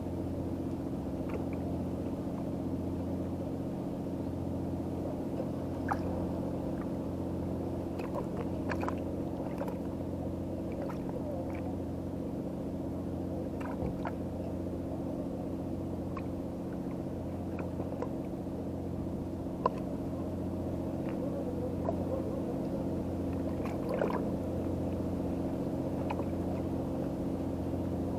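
An engine idling steadily with a low, even hum, with a few faint light clicks and taps scattered over it.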